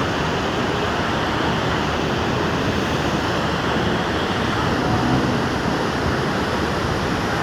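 Rainwater torrent rushing steadily and loudly down a seasonal flood channel (sayla) after heavy rain.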